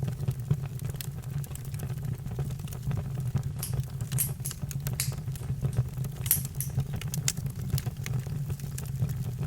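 Campfire crackling, with many small snaps and several sharper pops over a steady low rumble of burning.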